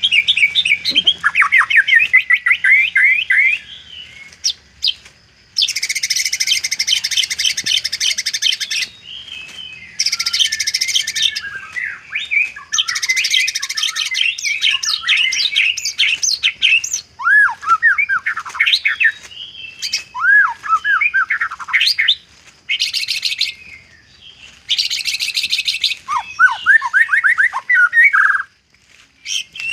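White-rumped shama singing a varied, loud song with borrowed phrases of other birds. Phrases of swooping whistles alternate with bursts of rapid, very high trills, with short pauses between phrases.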